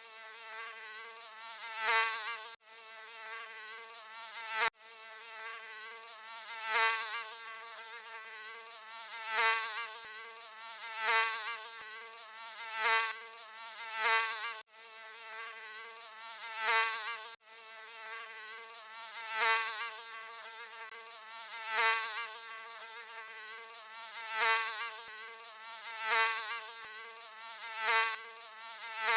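Mosquito wing buzz: a continuous high whine with a stack of overtones, swelling louder and fading again about every two seconds as if flying close past the ear. It has a few abrupt momentary dropouts where the recording is spliced.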